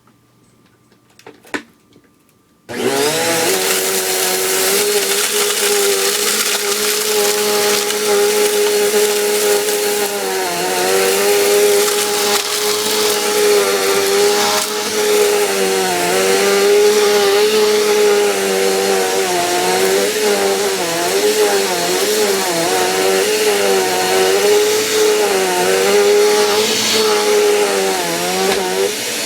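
A Dirt Devil Dynamite 2 vacuum cleaner switches on about three seconds in after a few light clicks, and its motor runs with a steady whine while it picks up pretzel crumbs. The pitch dips and wavers again and again as the airflow is loaded, then the motor winds down near the end.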